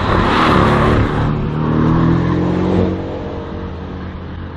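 Race car's engine revving hard through a slalom run, its pitch rising and falling with gear changes and throttle. It is loud for about three seconds, then fades as the car pulls away.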